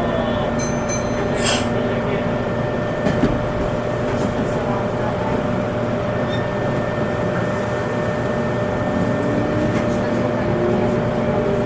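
Electric multiple-unit train running on the Meitetsu Nagoya Main Line: a steady rumble of wheels on rail with a steady motor hum, and a few faint clicks. Near the end the motor tone rises in pitch.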